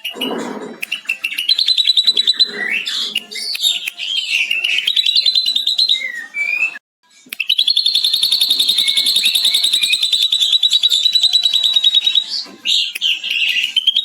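Ashy drongo singing with mimicked lovebird chatter: fast trills of short, high notes. After a brief break halfway through comes one long unbroken chattering run of about five seconds.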